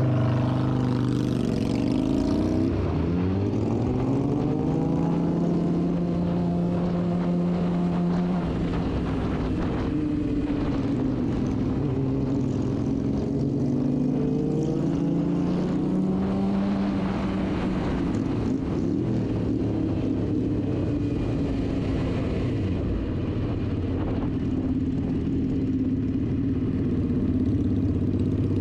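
2006 Suzuki GSX-R 750's inline-four engine running under way, its pitch climbing over the first few seconds as it pulls away, then rising and falling several times with throttle and gear changes.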